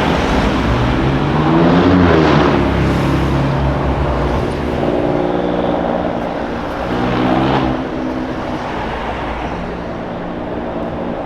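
Exhaust of an Alfa Romeo Giulia Quadrifoglio's twin-turbo V6 as the car accelerates through the gears, the engine note rising twice, near the start and again about halfway, then settling to a steadier cruise.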